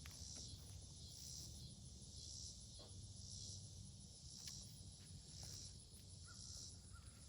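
Faint high-pitched insect chirping that swells about once a second, over a low steady hum.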